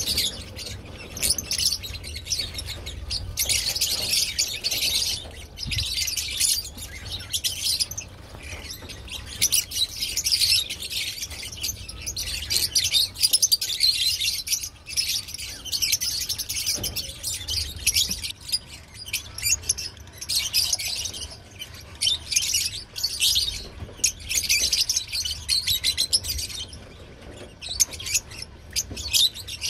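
Lovebirds chattering: dense, shrill chirping that comes in waves with brief lulls.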